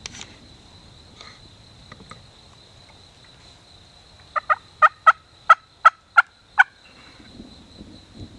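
A series of about eight loud, evenly spaced turkey yelps lasting a little over two seconds, starting about halfway through.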